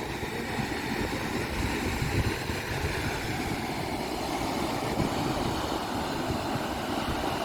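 The Lower Düden Waterfall's steady rush of water falling off the cliffs into the sea, with wind rumbling on the microphone.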